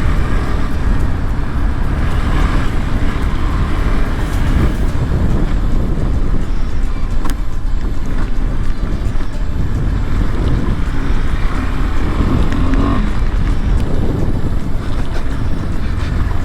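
KTM 390 Adventure's single-cylinder engine running steadily as the motorcycle is ridden along a dirt trail, under a heavy low rumble of wind on the microphone.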